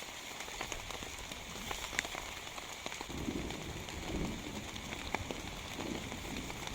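Heavy rain falling steadily, with many individual drops ticking sharply on a nearby surface. From about three seconds in, irregular lower, muffled sounds join in.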